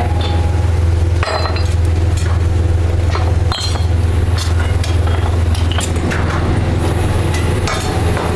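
Workshop machinery running with a steady low hum, while metal parts clink and knock against each other a dozen or so times, some strikes ringing briefly.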